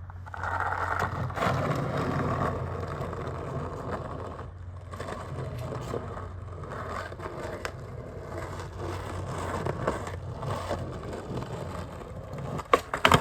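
Skateboard wheels rolling over rough pavement, a steady gritty rumble that dips for a moment about a third of the way through. A few sharp clacks of the board come near the end.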